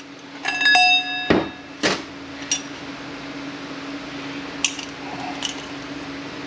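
Steel transmission parts clinking and knocking as they are handled and set down: a ringing metallic clink about half a second in, two louder knocks soon after, then a few light clicks. A steady low hum runs underneath.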